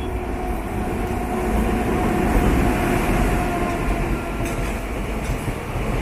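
Passenger train running along the rails, with a steady low rumble of wheels and carriages that swells over the first couple of seconds and then holds.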